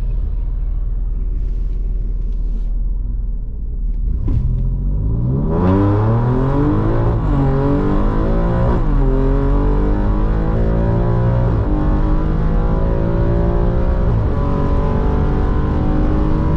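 Car engine under hard acceleration: a steady low rumble, then about four seconds in the engine note climbs in pitch, drops briefly twice and settles into a steady high drone.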